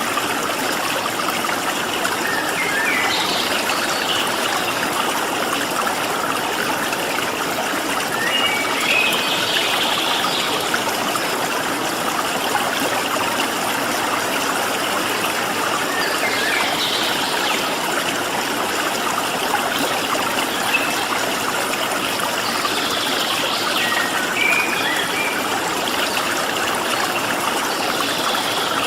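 Water flowing steadily in a stream, with a few short bouts of wild birdsong over it.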